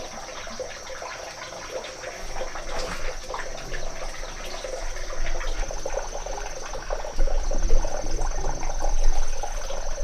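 Water running and splashing unevenly, with a steady thin high-pitched tone throughout.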